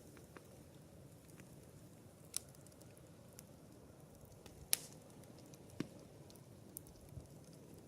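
Campfire burning with a low steady rush and scattered sharp crackles and pops, the loudest pop a little past the middle.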